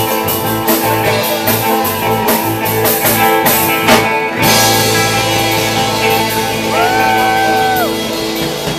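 Live rock band playing with electric guitars and drum kit. The drum hits stop about four seconds in, and a held chord rings on under a bent, wavering lead guitar note.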